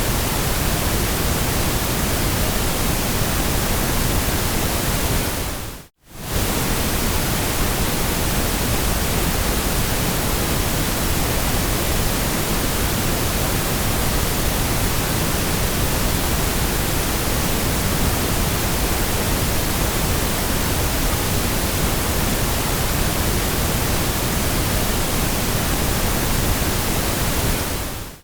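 Steady white noise, an even hiss across all pitches, that fades out and straight back in about six seconds in.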